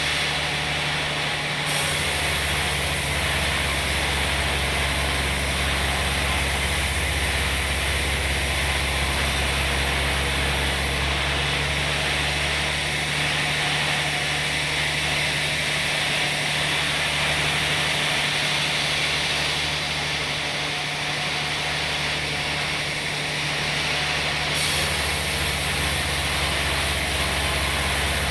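Sawmill machinery running steadily with a low engine hum; the sound changes character about two seconds in and again near the end.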